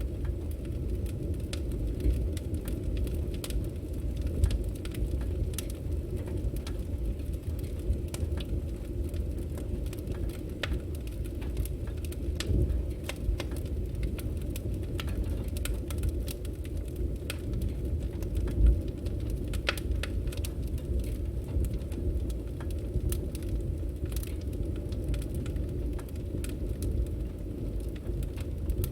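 Firewood burning with a steady low rumble of the flames and frequent sharp crackles and pops from the logs, one louder pop about two-thirds of the way through.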